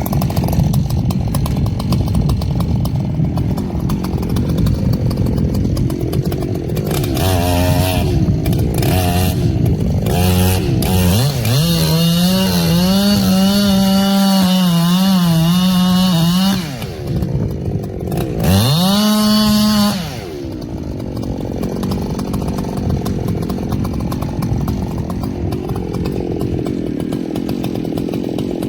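Echo CS-7310 two-stroke chainsaw running, with rougher, lower running for the first several seconds. About ten seconds in it revs up and holds at high speed for about five seconds, with a slight waver in pitch. It then drops off, revs up again briefly, and settles back to lower running.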